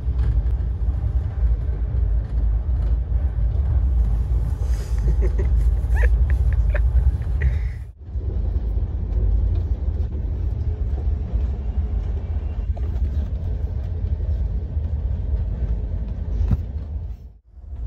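Steady low rumble of the Rajdhani Express passenger train running, heard from inside a sleeper coach. It breaks off briefly twice, about halfway through and near the end.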